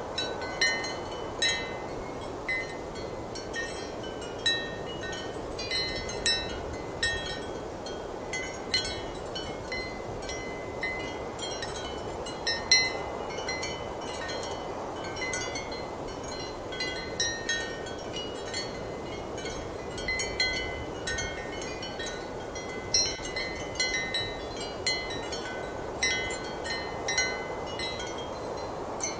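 Ceramic wind chimes clinking irregularly in strong wind, short bright rings over a steady rushing wind.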